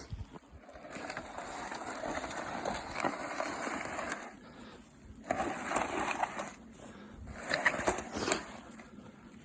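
Crunching and rustling noise in three stretches: a long one of about three seconds, then two shorter ones.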